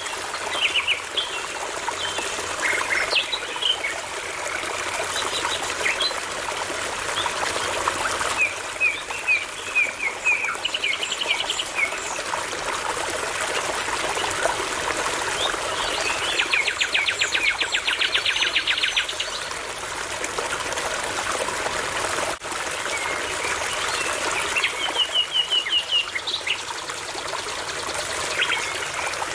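A babbling brook's steady rush of water under birdsong. The birds sing phrases of short repeated notes, with a fast trill a little past the middle and another quick run of notes near the end.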